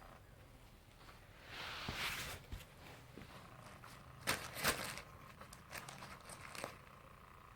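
Cats scuffling and pouncing around an electric feather toy: a burst of rustling, then a couple of sharp taps and a few lighter ticks, over a faint steady hum.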